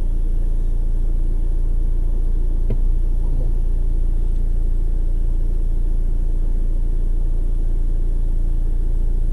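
Car engine idling, a steady low drone heard from inside the cabin, with one brief click a little under three seconds in.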